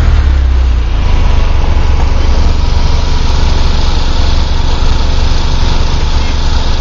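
Toyota MR2 Spyder's mid-mounted 1.8-litre four-cylinder engine idling steadily, with no revving.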